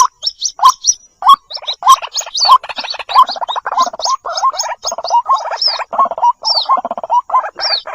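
Recorded calls of white-breasted waterhen chicks calling for their mother, used as a lure sound. It is a rapid, continuous string of short chirping notes, several a second, each pairing a lower note with a high squeak.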